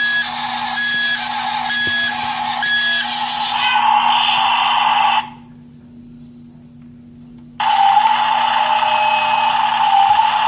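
Electronic sound effect from a battery-powered toy, played through its small speaker: a noisy motor-like sound with a repeating beep for the first few seconds. It cuts off about five seconds in and starts again about two and a half seconds later.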